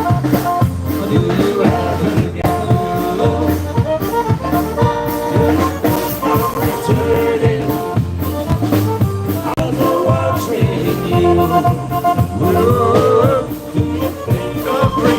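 Live polka band playing a tune with a steady bass beat.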